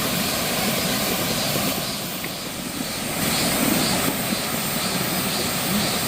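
Steady rushing of flowing water, an even noise that barely changes.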